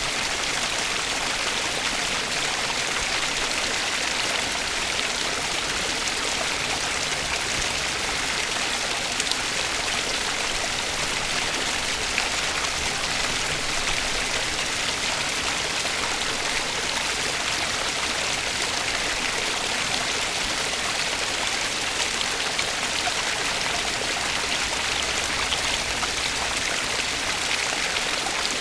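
Water flowing in a stream, a steady, unbroken sound of running water.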